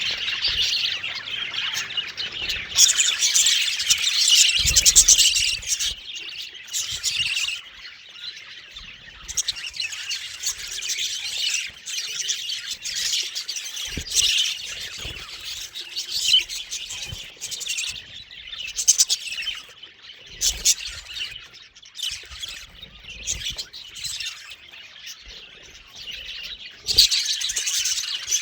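Budgerigars chirping and chattering continuously, with the densest chatter a few seconds in and again near the end, and a few soft low knocks among it.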